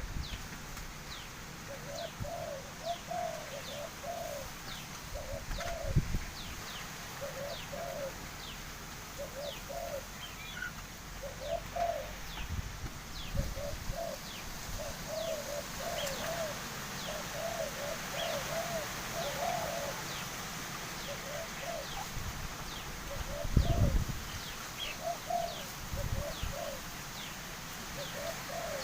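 Dove cooing over and over in short, arched, grouped notes, with thin high chirps from other birds and a few low thumps.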